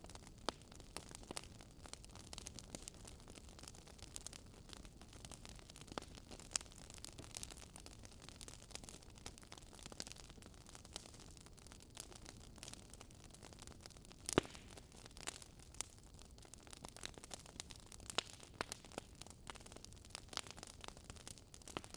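Crackling wood fire: irregular sharp pops and snaps over a soft steady hiss, with one louder pop a little past the middle.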